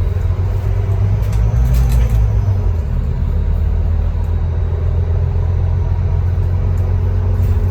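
Scania K310UB bus's diesel engine running with a steady low rumble that shifts slightly about two seconds in.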